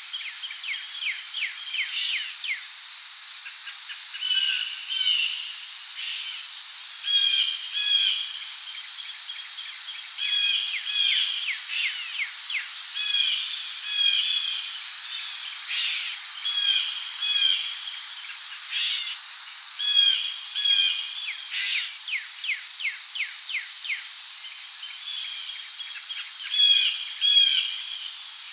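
Tropical rainforest ambience: a steady, high-pitched insect drone of crickets, with birds repeatedly giving short chirping calls, often in pairs or quick series. A few sharp clicks are scattered through it.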